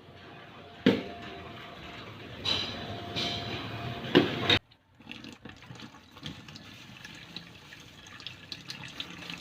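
Water running, with three sharp knocks in the first half and a sudden break about halfway through.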